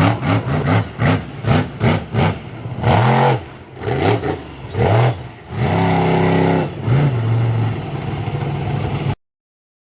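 Big monster truck engine revved hard in repeated throttle blips, its pitch rising and falling several times, with rapid crackling strokes in the first two seconds and a longer steady hold near the end before the sound cuts off suddenly.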